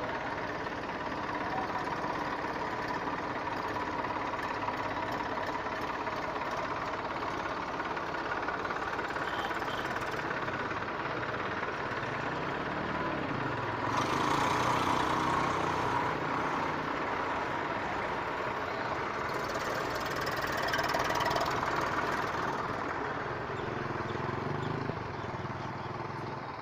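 Diesel tractor engine running steadily, growing louder for a couple of seconds about halfway through and again a few seconds later.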